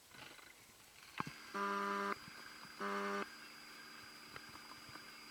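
Two steady, low-pitched blasts on a hunting horn, the first a little longer than the second, calling the hound.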